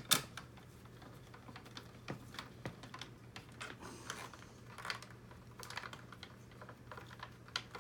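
Scattered light clicks and taps of small screws, a hand screwdriver and hard plastic parts being handled while a DJI RoboMaster S1 side panel is screwed on and worked into its seat. The clicks come irregularly, with the sharpest one right at the start.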